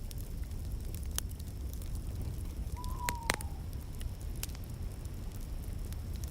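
Wood fire crackling: scattered sharp pops over a steady low rumble, with a brief faint falling whistle about three seconds in.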